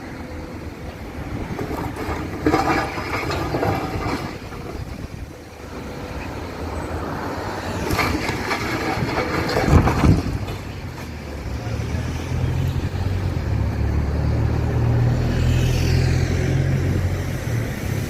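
Outdoor vehicle noise, with a steady low engine hum setting in about halfway through and running on.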